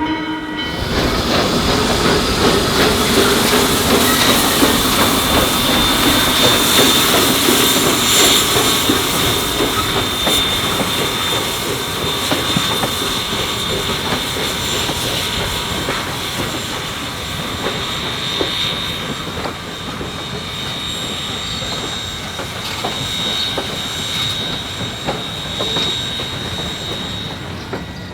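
Train cars rolling past on jointed track, the wheels clacking steadily with a thin high squeal above, slowly fading as the train moves away.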